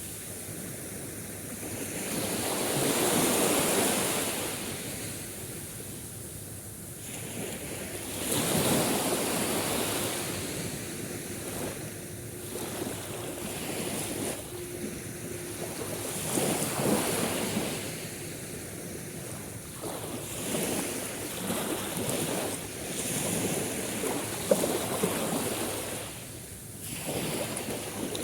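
Sea waves breaking and washing ashore, the surf swelling and fading again every few seconds.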